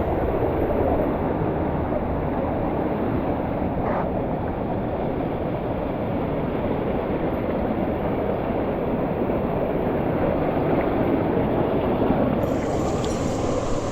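Waterfall in a mountain gorge, its water pouring and rushing in a steady roar. A faint click comes about four seconds in.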